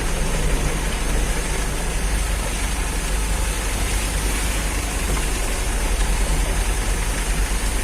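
Heavy diesel vehicle engine running steadily with a constant low drone.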